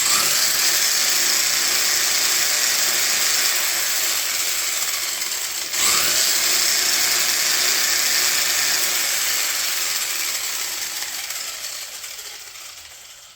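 Stock brushed electric motor and gear drivetrain of a 1/14 scale RC monster truck whirring at full throttle on a 3S battery, wheels spinning fast enough to show tire expansion. The whine spins up at the start, dips and spins back up about six seconds in, then winds down near the end.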